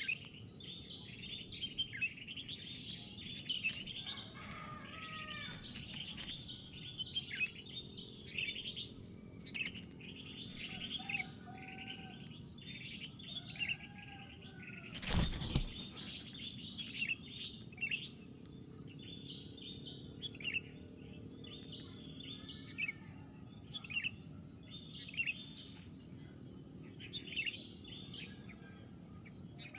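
Birds chirping in short, repeated notes over a steady high-pitched insect drone, with a few lower, curving calls mixed in. A single sharp thump sounds about halfway through.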